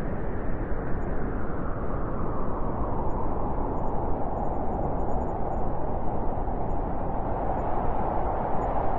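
Blizzard wind blowing steadily, a howl that grows a little stronger over the second half.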